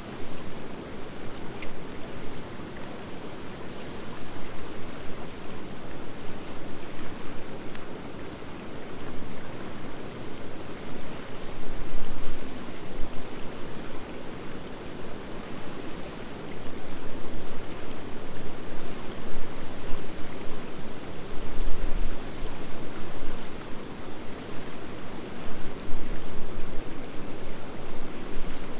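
Wood fire burning steadily, a constant rushing noise with a few faint pops.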